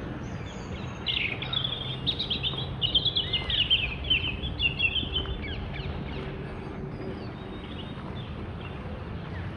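A small bird singing a fast, twittering song, strongest for about four seconds after the start, then fainter scattered chirps, over a steady low background hum.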